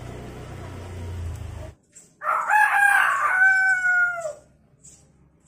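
A common hill myna imitating a rooster's crow: one loud call starting about two seconds in, lasting about two seconds and dropping in pitch at the end. Before it, a rushing noise with a low hum that cuts off suddenly.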